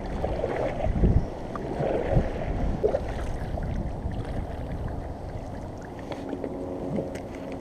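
Water lapping around a kayak on a river, with wind rumbling on the microphone and a few low bumps in the first two seconds.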